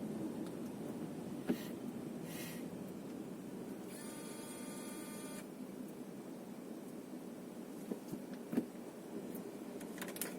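Steady low hum of a car cabin on the move, with a short buzzing electronic tone lasting over a second about four seconds in and a few faint clicks.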